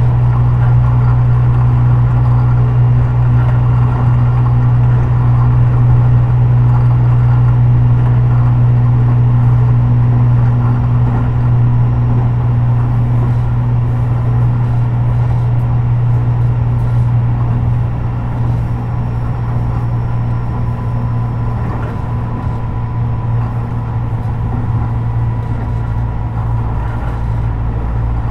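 Tobu 50090 series electric commuter train running between stations, heard inside the car near the floor: a steady low hum and rumble of the running gear, with a faint high tone, easing slightly about two thirds of the way through.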